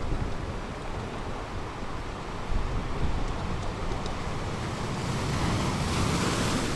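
Ocean surf washing onto a beach: a steady rushing noise with a low rumble, and a wave's hiss swelling up near the end.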